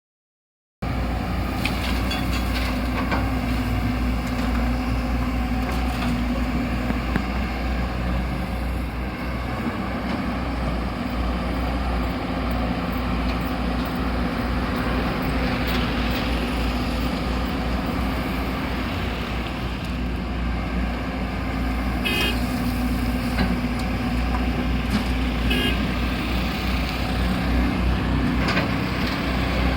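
Heavy diesel engine of an excavator running steadily with a deep rumble, with a few short metallic knocks in the second half.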